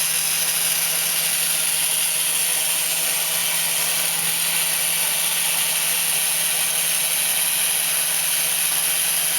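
SCMI bandsaw running steadily, with a constant motor hum under the hiss of the blade.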